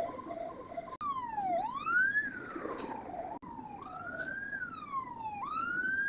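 Fire truck siren: a brief two-tone hi-lo alternation, then after an abrupt cut about a second in, a slow wail that falls and rises in pitch. A second abrupt cut comes near the middle, after which the wail continues rising and falling.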